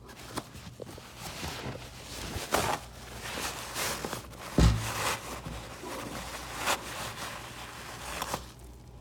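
Irregular rustling and knocks from someone moving about and handling things, with a loud thump about four and a half seconds in, over a steady low hum.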